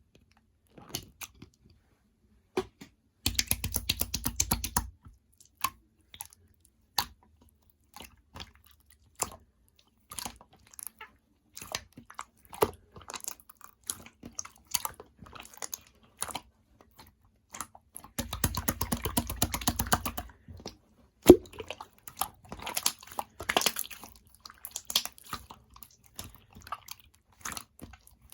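Purple slime with pearl beads mixed in being squished and pressed by hand: scattered sticky clicks and pops, with two stretches of rapid crackling, about 3 seconds in and again about 18 seconds in.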